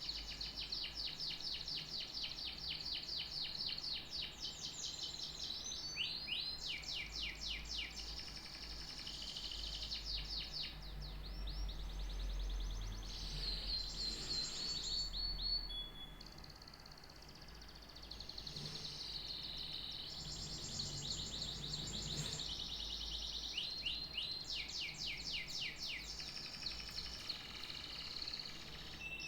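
Canary singing: long runs of fast repeated trill notes and quick sweeping phrases, pausing briefly about halfway through before starting again.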